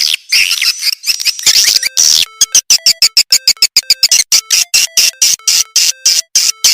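Swiftlet twittering from a lure-call recording used to draw swiftlets into a nesting house: dense, high, chirping calls, turning about two seconds in into a fast, even pulsing of short chirps, about five a second, over steady lower tones.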